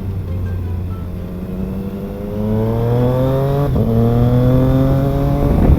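Triumph Trident 660's inline three-cylinder engine through a Spark aftermarket exhaust, accelerating: the pitch climbs from about two seconds in, drops at an upshift a little past halfway, then climbs again and drops at a second gear change at the very end. Heard from a recorder inside the rider's helmet.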